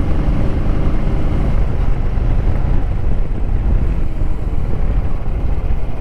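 Motorcycle running on the move, a steady low rumble with no pauses.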